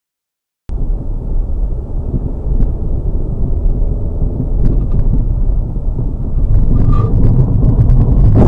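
Dash-cam recording of a car driving: a steady low rumble of engine and road noise that starts abruptly about a second in, with a few faint clicks.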